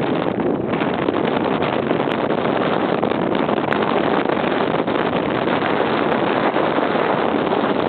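Strong storm wind blowing hard across the microphone, a loud, steady rush of wind noise.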